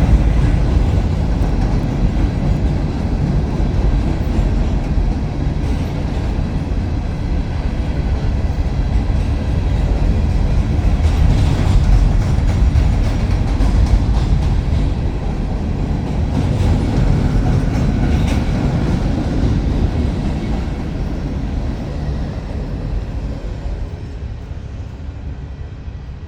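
Grain train's freight cars rolling past with a steady low rumble and wheel clatter, fading away over the last few seconds.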